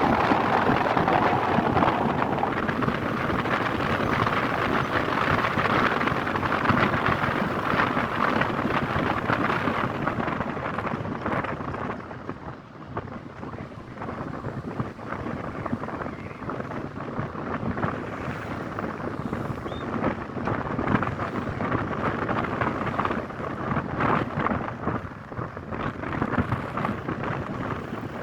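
Wind rushing over the microphone while moving along a road, with road and traffic noise beneath. It eases a little about a third of the way in, with a brief lull.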